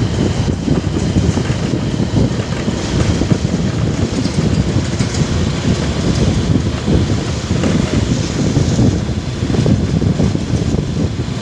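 Steady, loud rumble of a motorcycle on the move, with wind buffeting the microphone throughout.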